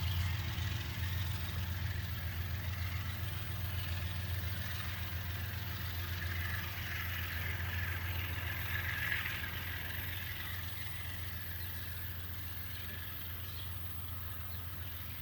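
Amtrak diesel locomotive running with a steady low drone that slowly fades, with a band of higher rushing noise that swells briefly past the middle.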